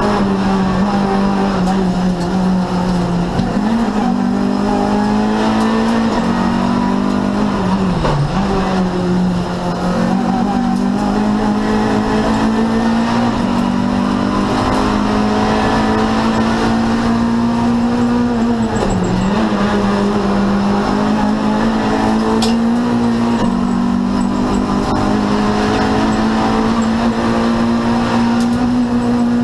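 Renault Clio 2 Cup race car's four-cylinder engine running hard at high revs, heard from inside the cockpit. The pitch holds high, stepping slightly up and down, and dips briefly twice, about 8 and 19 seconds in, before climbing back.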